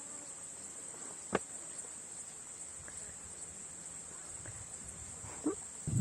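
Steady high-pitched insect chorus, with one sharp click about a second and a half in and a short, faint sound near the end.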